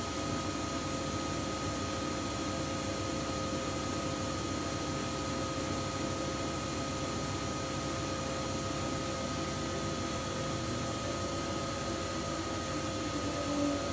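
Washing machine running steadily, its motor giving a constant whine over a low rumbling hum, with a short swell near the end.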